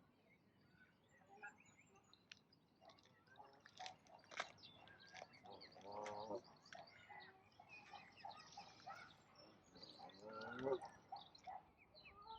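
Ducks giving two low calls, about six and ten seconds in, over faint, busy chirping of small birds.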